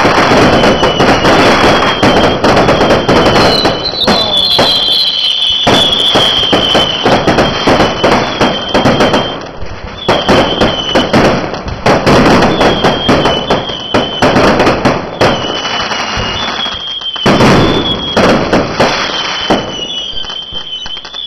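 A loud, dense barrage of fireworks: continuous crackling and popping, with short high whistles that glide slightly down in pitch, one about every second or two.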